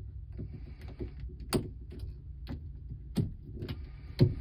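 Scattered clicks and knocks with light scraping as an electrical cable is worked through the clamp into a water heater's junction box, three sharper knocks standing out, over a steady low hum.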